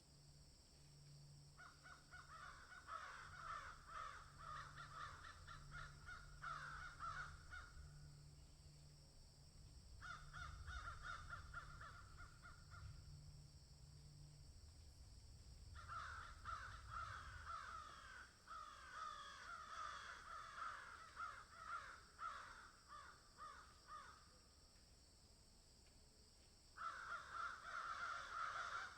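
Animal calls in four bouts of several seconds each, every bout a rapid run of repeated calls, over a steady high hiss.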